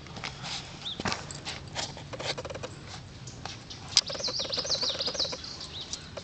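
Birds chirping, with a quick run of rising and falling whistled notes about four seconds in. Under them is a short low trill that repeats, plus scattered soft clicks and rustles, and one sharp click about four seconds in.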